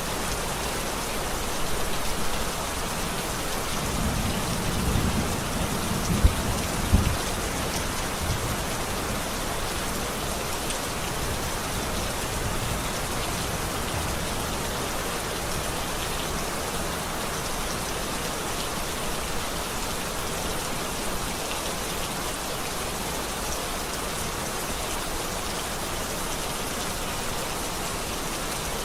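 Steady rain falling, with a low rumble of thunder from about four to eight seconds in that includes two sharp cracks.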